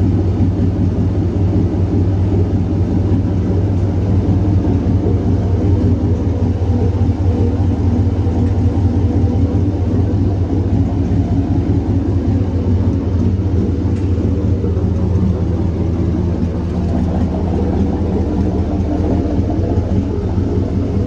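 1980 Chevrolet K5 Blazer's 5.3-litre V8 idling steadily.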